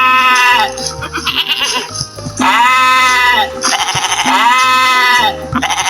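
Sheep bleating several times in a row, each bleat drawn out and wavering, over background music.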